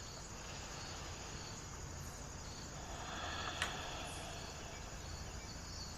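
Faint outdoor ambience of insects chirping steadily in a repeating high-pitched pattern, with a single soft click about three and a half seconds in.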